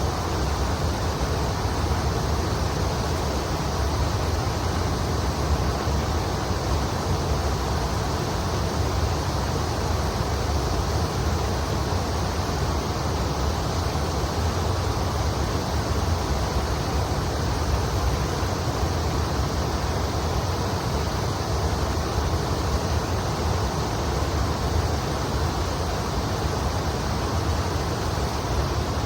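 Steady rushing of the Kamo River flowing over its shallow bed, an unbroken wash of water noise with a strong low rumble.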